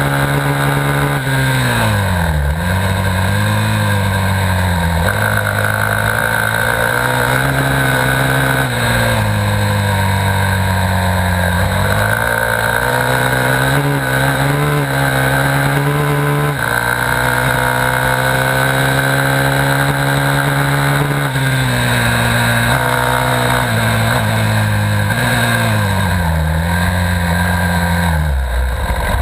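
Dirt bike engine running hard under throttle. Its pitch drops and climbs back up three times, as the throttle is rolled off and opened again.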